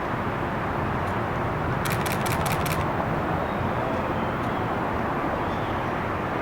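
Steady jet noise from the four turbofan engines of the Boeing 747 Shuttle Carrier Aircraft carrying Space Shuttle Endeavour, passing low overhead. About two seconds in, a quick run of about six camera shutter clicks.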